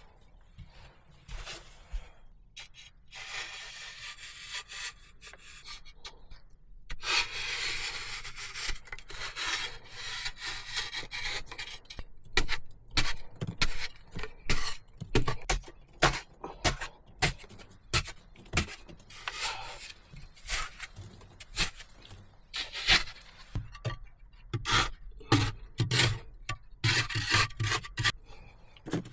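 Hand tool working wood: scraping and rubbing strokes, turning into a long run of quick, sharp strokes about a dozen seconds in, one or two a second.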